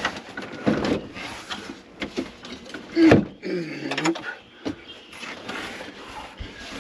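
A tight-fitting panel being pushed back into place, scraping and knocking as it is forced a little at a time. There is a sharp knock just under a second in, and a drawn-out bending strain sound about three seconds in.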